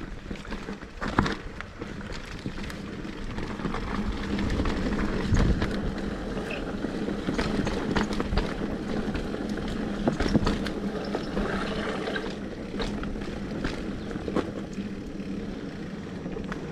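Mountain bike rolling down a dirt trail: a steady rumble of tyres on the ground, broken by frequent short knocks and rattles as the bike goes over bumps.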